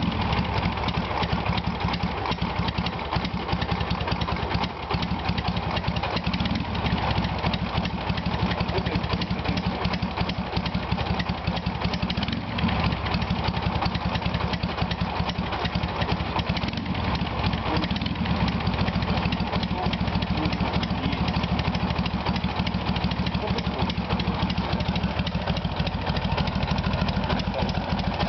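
Dnepr MT-11 motorcycle's flat-twin engine running steadily at idle on a cold engine.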